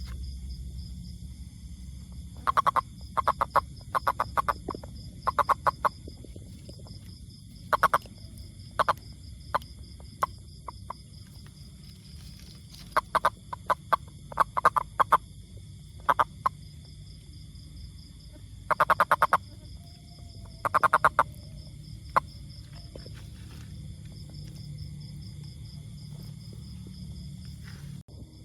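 Toad calling: short, rapidly pulsed trills, each lasting under half a second, repeated in irregular clusters with pauses of a few seconds between them.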